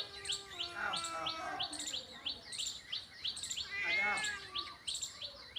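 Small birds chirping steadily in short downward-sweeping chirps, about three a second, with two longer pitched calls about one second and four seconds in.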